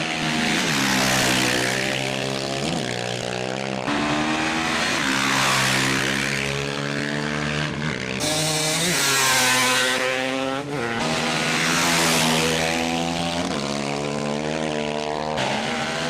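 Off-road racing motorcycle engines revving and passing by, pitch rising and falling, in several short clips joined by abrupt cuts.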